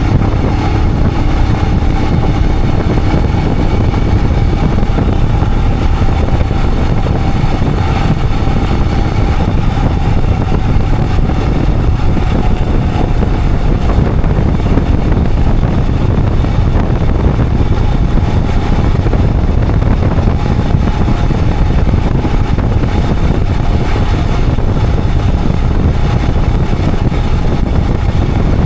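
Royal Enfield Himalayan 411's single-cylinder engine running steadily while the motorcycle is ridden along the road, with no change in pace.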